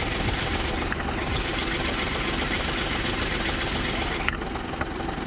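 Truck engine idling steadily, with one short click about four seconds in.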